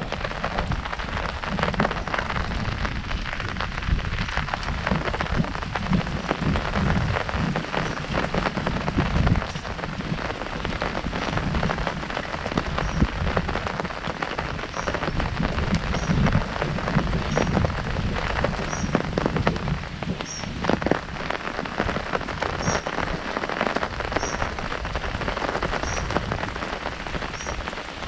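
Heavy rain drumming on an umbrella canopy overhead: a dense, steady patter of drops hitting the fabric.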